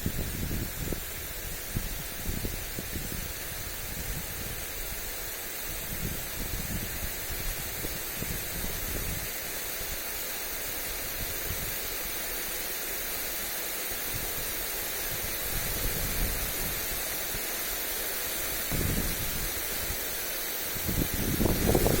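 Lawn sprinkler spraying water onto grass, a steady hiss. Wind buffets the microphone in low gusts, strongest near the end.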